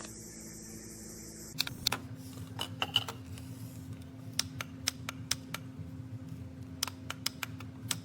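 Irregular sharp clicks and taps, like typing, over a steady low hum; a steady high hiss stops about one and a half seconds in.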